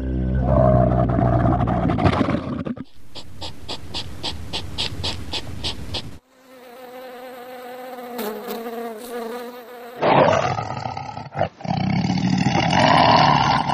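Several different animal calls edited one after another, each cutting off abruptly: a low pitched call first, then a fast, even pulsing, then a wavering held call, and a loud call again near the end.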